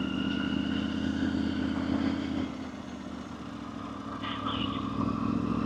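Motorcycle engine running while riding at a steady pace. It eases off about two and a half seconds in, then picks up again near the end.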